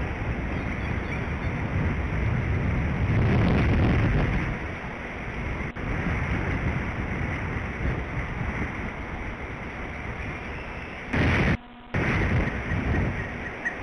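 Strong wind buffeting an outdoor microphone: a continuous rushing roar that rises and falls in gusts, strongest about three to four seconds in. About eleven seconds in there is a short loud burst, then the sound drops out for about half a second.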